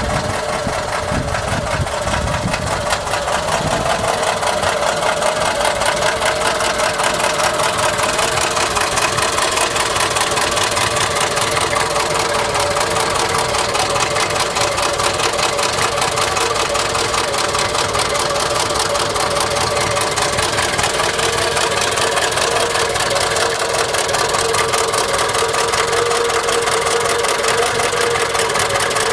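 Citroën GS 1300's air-cooled flat-four engine running steadily with a fast, even knocking throughout: a bad sound that points to a mechanical fault in the engine.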